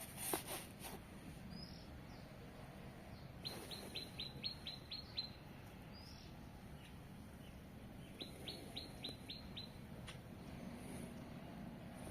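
A small bird calling: two quick trills of about eight short, high notes each, one about three and a half seconds in and another about eight seconds in, with a few fainter single chirps between.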